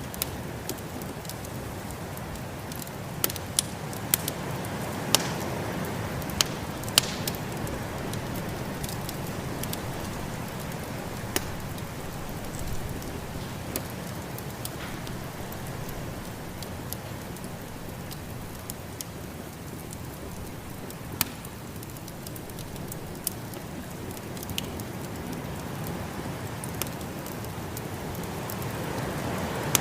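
Wood fire crackling in a fireplace with scattered sharp pops, a cluster of them a few seconds in, over a steady rushing hiss of snowstorm wind.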